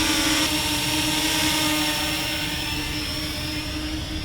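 Parrot Anafi quadcopter's propellers and motors humming with a steady, pitched whine, growing fainter as the drone climbs away.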